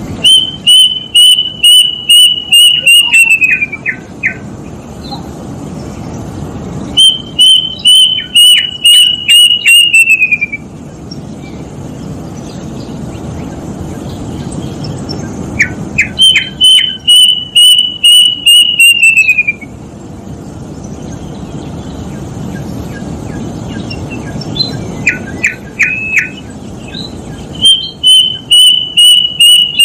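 Plaintive cuckoo (kedasih) singing: four bouts of about ten clear whistled notes in quick even succession, each bout about three seconds long and sliding down in pitch at the end. A few short lower notes come between the bouts.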